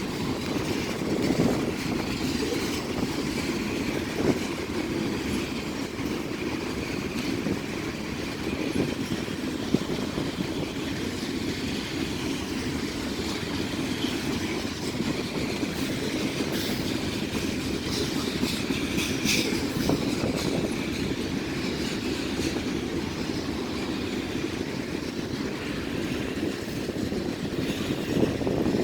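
Freight train cars rolling steadily over a railway bridge overhead, a continuous rumble with wheel clatter and occasional metallic squeals.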